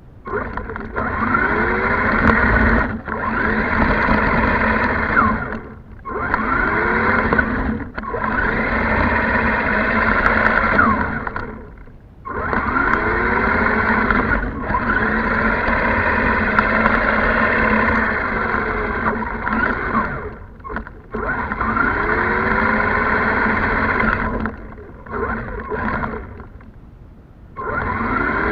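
1:12-scale 4WD RC monster truck's electric motor and gears whining in repeated bursts of a few seconds as the throttle is pressed and let off, the pitch rising and falling with speed.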